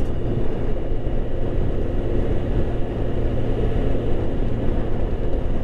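Motorcycle riding along at a steady pace: continuous engine and road noise, heard from the bike's own microphone.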